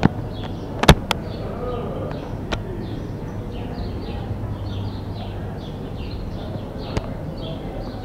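Small birds chirping over and over, short high chirps about two or three a second, over a steady low hum, with a sharp click about a second in and another near the end.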